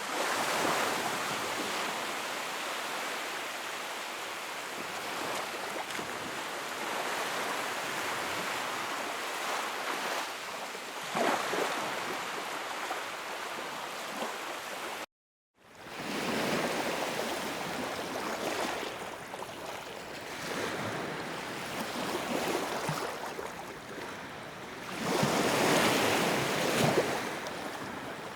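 Wood fire in a fireplace, crackling and hissing steadily, growing louder near the end. There is a sudden half-second gap of silence about halfway through.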